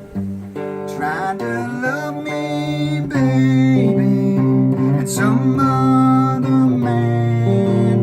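Acoustic guitar played in a Mississippi Hill Country blues style, with notes that bend in pitch and a steady low bass line.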